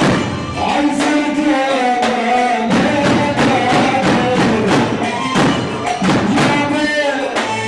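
Loud instrumental Arabic party music: a wavering melodic line over a steady percussion beat, with no singing.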